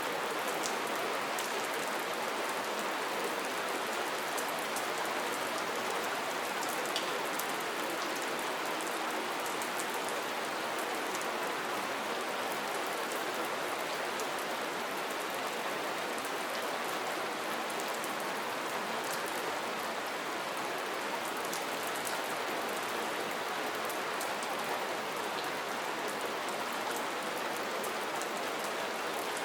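Steady soft rain falling, an even hiss with scattered individual drops ticking on a surface.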